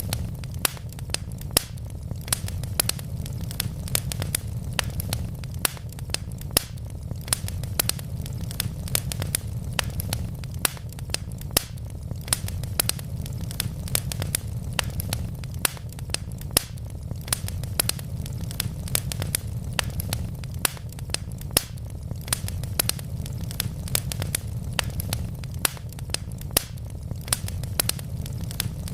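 Wood logs burning in a fireplace, crackling with many sharp, irregular pops and snaps, several a second, over a steady low rumble.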